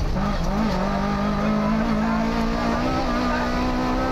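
Lada VFTS rally car's four-cylinder engine heard from inside the cockpit, pulling hard under acceleration. Its pitch jumps up just after the start and then climbs slowly and steadily through the gear.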